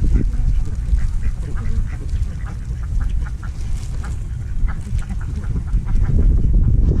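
A flock of ducks quacking, many short calls one after another, over a steady low rumble.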